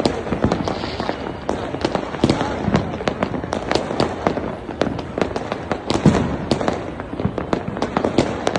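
Many fireworks and firecrackers going off at once: a dense, irregular run of sharp pops and bangs, several a second, over a steady crackling haze.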